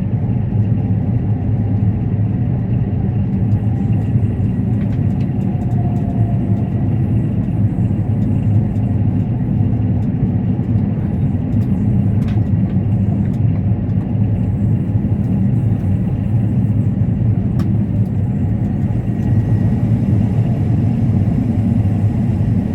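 Combine harvester running, heard from inside the cab: a loud, steady drone of engine and machinery, with a few faint ticks.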